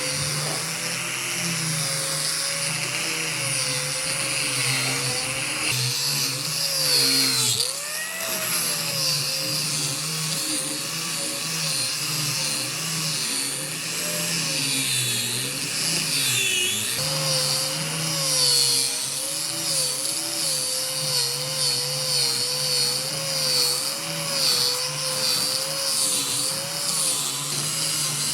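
Handheld power tool motor running continuously on wood, its pitch wavering up and down as the load changes, with a brief drop in pitch about seven to eight seconds in.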